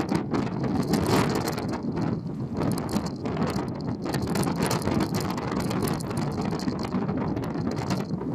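Wind buffeting and crackling on the microphone aboard a car ferry, over a steady low rumble of the ship underway.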